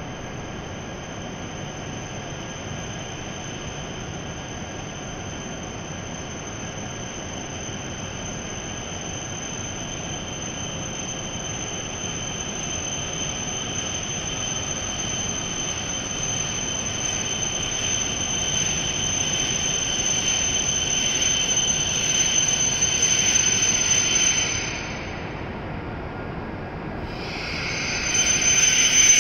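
E7 series Shinkansen pulling into the platform and braking, its running noise growing steadily louder with a high-pitched whine over it. The sound drops briefly near the end, then swells again as the train comes alongside.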